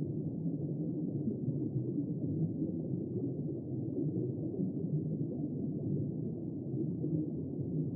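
Steady, muffled underwater rumble of moving water, all low in pitch with nothing high and no distinct calls.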